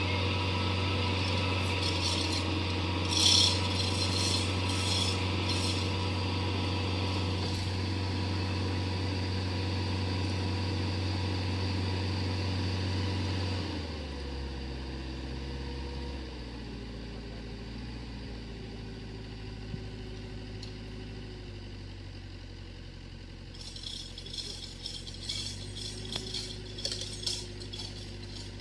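Mini excavator's engine running steadily with metallic rattling and clicking; the engine settles to a lower, quieter running about halfway through, and the rattling picks up again near the end.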